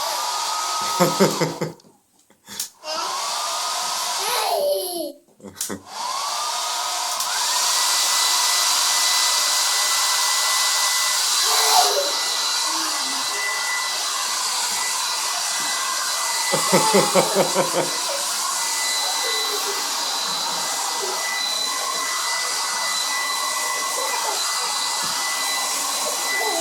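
Hand-held hair dryer blowing. It is switched off and on a few times in the first six seconds, its motor whine winding down and then rising back up, before running steadily. Short pulsed bursts of laughter break in about a second in and again around sixteen to eighteen seconds.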